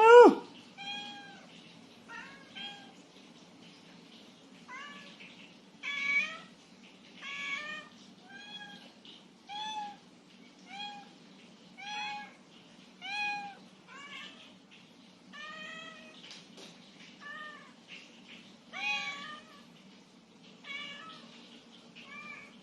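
A cat meowing over and over, a short rising-and-falling call about every second, the first one loudest. The meows are begging for food: the cat is hungry.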